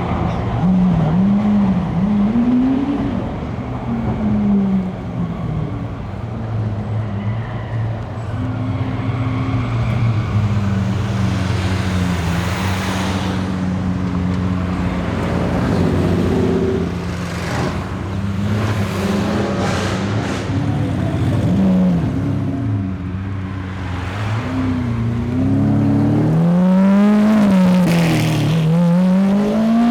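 Lamborghini supercar engines revving as cars pull away, the engine note rising and falling in repeated blips, with a longer climbing rev near the end.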